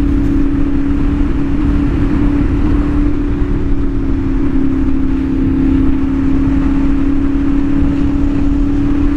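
CFMOTO 450SS parallel-twin engine through an aftermarket slip-on exhaust, pulling at a steady engine speed on the move, one even note with a low rumble and rushing wind beneath it. The rider hears it as having a low tone but trying to pitch high.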